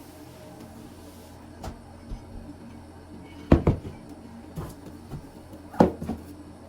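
Household objects being handled: a few light knocks, then two louder thuds or clunks a little over two seconds apart, like cupboard doors or items being set down.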